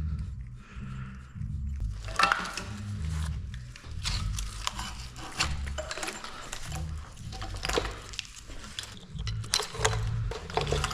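Irregular clicks, snaps and light knocks of plastic connectors and harness clips being worked loose as the engine wiring harness is pulled off a 6.0L Powerstroke diesel.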